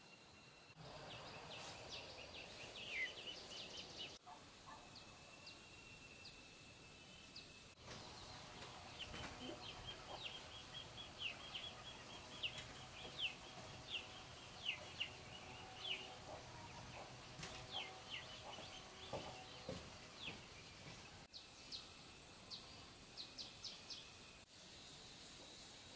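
Faint outdoor ambience with birds chirping: many short, high calls repeating through the clip, and the background noise changing abruptly a few times.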